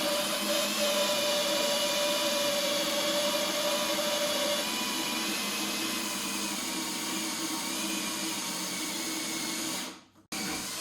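An electric motor running steadily with a high whine. It cuts off sharply about ten seconds in, then runs again briefly before stopping.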